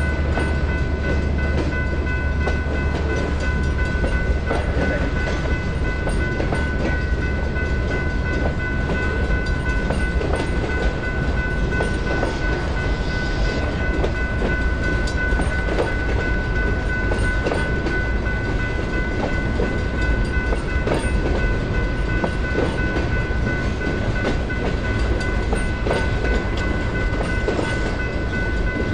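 Freight train rolling slowly through a grade crossing, its wheels clattering steadily over the crossing and rail joints. The crossing signal's electronic bell keeps ringing over it, and a deep engine rumble fades about four seconds in.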